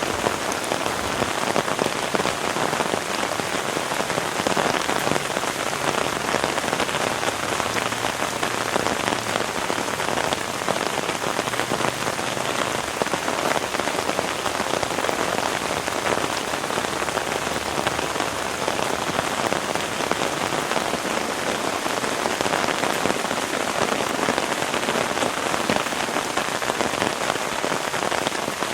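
Heavy rain falling steadily, a dense, even patter of drops with no letup.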